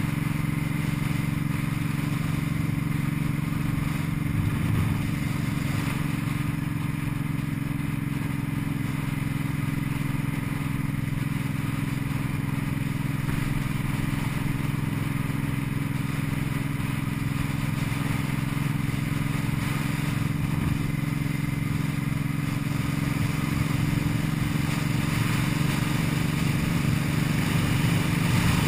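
Cruiser motorcycle engine running steadily at road speed under a constant rush of wind. It grows a little louder near the end.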